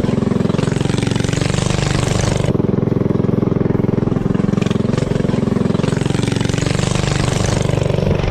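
Motorcycle engine running hard under way, a rapid, even stream of firing pulses whose pitch rises and falls slightly with the revs.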